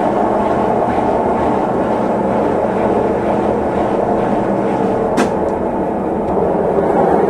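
Consul Facilite 11 kg (CWG11) washing machine in its final spin, a steady loud rumble and whoosh of the drum turning at speed, with one sharp click about five seconds in.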